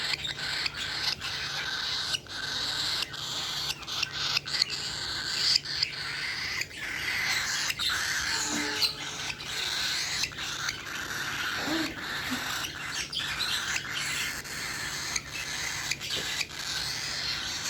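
Many cockatiels chirping and chattering together in a steady, overlapping din.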